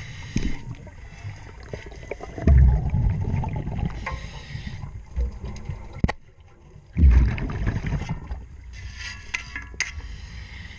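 Underwater sound of propeller cleaning: two loud rushes of a diver's exhaled scuba bubbles about four and a half seconds apart, with scattered clicks and scrapes of the cleaning work between and after them.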